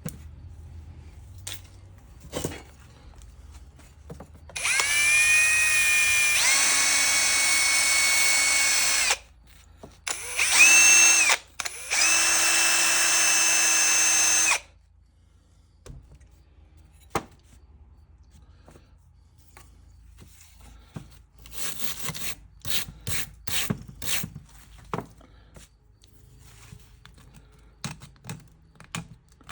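Small handheld electric power tool, drill-type, running at high speed to clean a corroded fuel sending unit. It winds up to speed, runs steadily for about four seconds, stops briefly, gives a short burst, then runs again for about two and a half seconds. Scattered light clicks and taps follow in the second half.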